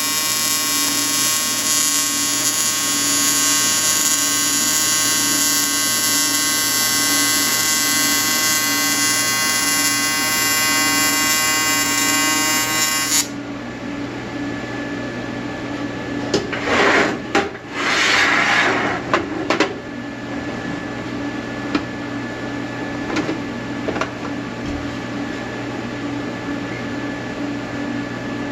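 Welding arc buzzing steadily, then cutting off abruptly about thirteen seconds in. A few seconds later come some short, loud, rough noises over a low background hum.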